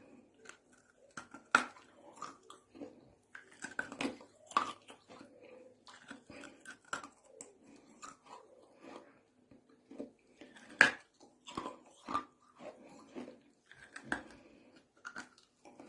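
A person biting and chewing pieces of brick up close: irregular gritty crunches, with two much louder sharp crunches, one about a second and a half in and one about eleven seconds in.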